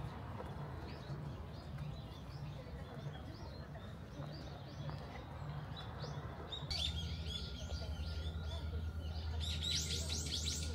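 Small birds chirping: short, quick repeated calls, sparse at first, then a busier, louder chorus about two thirds of the way in.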